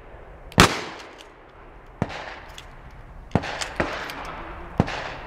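Shotgun shots from several shooters on a firing line: one loud close report with a long echoing tail about half a second in, then four scattered quieter shots.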